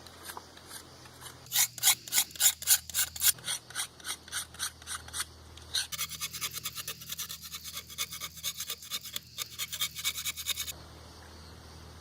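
Flint firestarter rod scraped with a striker to throw sparks, in a rapid series of rasping strokes. First a loud run of about four strokes a second, then a quieter, faster run that stops about two-thirds of the way in.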